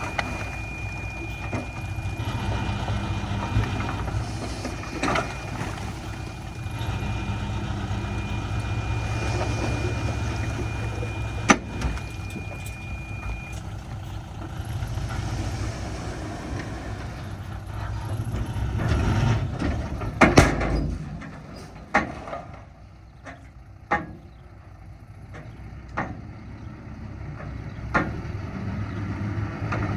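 Heavy diesel machinery running steadily, with scattered sharp metallic knocks. About 20 seconds in, after a louder surge and knock, the engine sound falls away and only occasional clanks remain.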